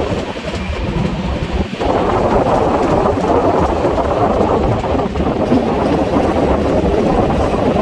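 Express passenger train running at speed, a loud steady rumble of the train with wind buffeting the microphone and a brief dip about two seconds in. The audio is sped up to double speed.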